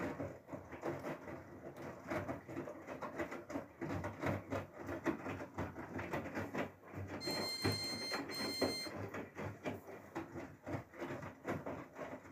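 Whirlpool FSCR90425 washing machine tumbling a load in its drum, with a steady patter of irregular knocks and swishes. About seven seconds in, the machine gives two electronic beeps, a longer one and then a short one.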